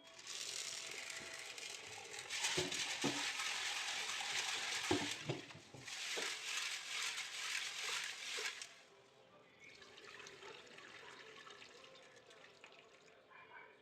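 Tap water running into a kitchen sink, with dishes knocking and clinking against it, until the tap is shut off about nine seconds in.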